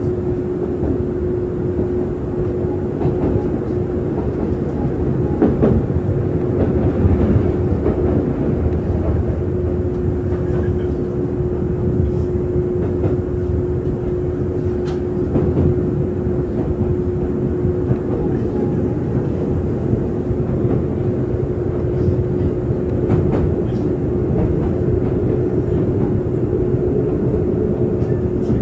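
Izuhakone Railway 5000 series electric train heard from inside the passenger car while running between stations. Steady rolling and running noise with a constant hum, and a few scattered clicks from the wheels.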